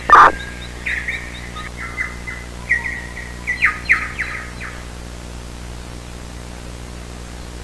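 Birds chirping: a run of quick, falling chirps that thins out about four seconds in, over a low steady hum. A short loud burst at the very start is the loudest sound.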